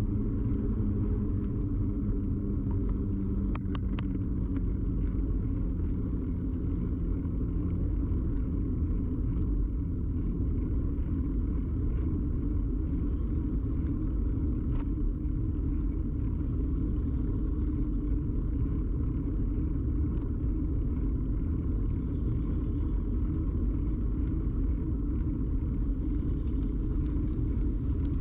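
Steady low rumble of a bicycle ride picked up through a camera mounted on the bike, the tyres and frame vibration carried straight into the microphone, with a few sharp clicks about four seconds in.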